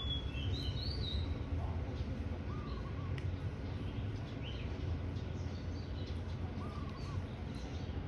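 Wild birds calling: a few high chirps in the first second and again mid-way, and a lower arched call heard twice, about four seconds apart, over a steady low background rumble.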